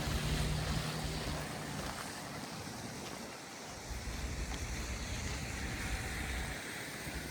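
Outdoor street noise with wind buffeting the microphone in low gusty rumbles. A vehicle engine's hum fades out in the first second.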